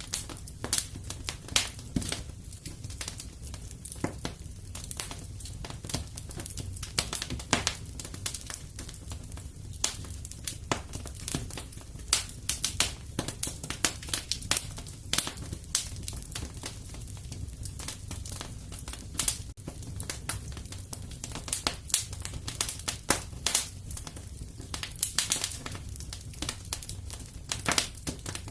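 Wood fire burning in a fireplace, crackling and popping irregularly, several snaps a second, over a steady low rumble of the flames.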